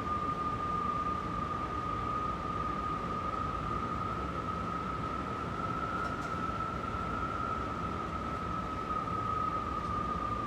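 Strong wind howling: a steady rushing noise with a single whistling howl tone over it, the tone rising slightly in pitch toward the middle and sinking again near the end.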